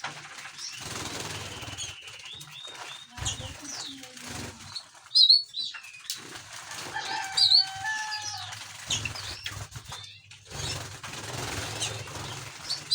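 Finches chirping in short, sharp high calls, with a few held whistled notes about seven to eight seconds in; the loudest chirps come about five and seven seconds in.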